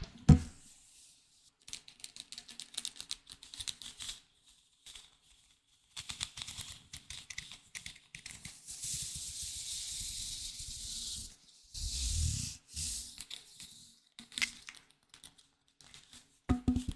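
Close-miked ASMR handling of an object: irregular crackling and crinkling, with a steady hiss for about two seconds in the middle and a brief low rumble just after it.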